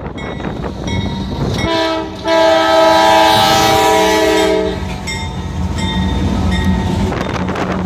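Train passing with a steady rumble and wheels clicking over the rails. Its air horn sounds one long chord of several notes, starting a couple of seconds in and lasting about three seconds.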